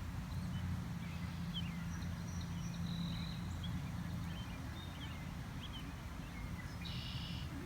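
Outdoor animal ambience: many short, high chirps scattered over a steady low rumble, with a brief buzzy call about seven seconds in.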